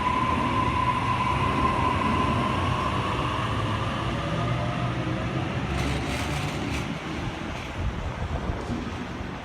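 Sydney Trains Waratah electric train pulling out of the platform: a low rumble with a steady high whine, both fading as it pulls away, and a few clicks from the wheels about six seconds in.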